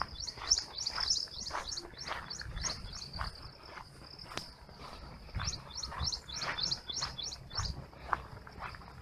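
Small birds chirping in quick runs of short rising notes over a steady high-pitched drone in a forest, with soft irregular knocks about twice a second.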